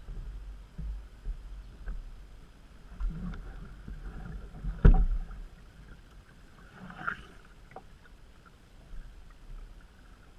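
A canoe being paddled: scattered paddle strokes and light knocks against the hull, with one sharp knock about halfway through, over a low rumble on the microphone.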